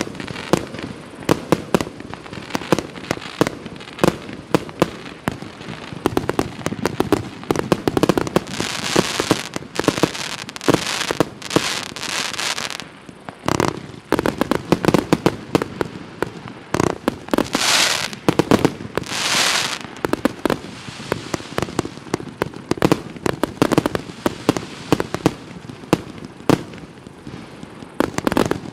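A 139-shot mixed-calibre firework battery (cake) firing continuously: rapid launch thumps and bursts one after another, with two longer stretches of dense noise about eight and eighteen seconds in.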